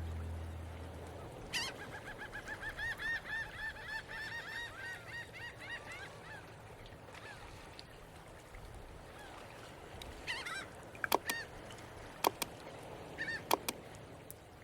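Geese honking in a rapid run of short calls, several a second, that trails off. A few more calls and some sharp clicks follow near the end, and background music fades out at the very start.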